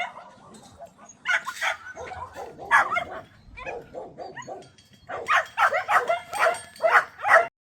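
Shelter dogs barking and yipping in short bursts, busiest over the last two seconds or so, then cutting off suddenly.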